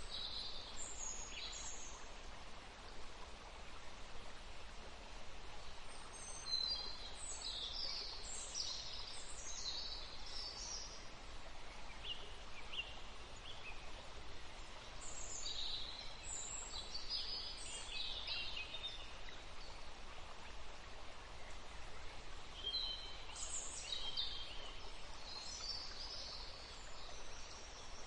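Several songbirds chirping and singing in a forest, in bursts of quick high chirps and trills about every five to eight seconds, over a steady background hiss.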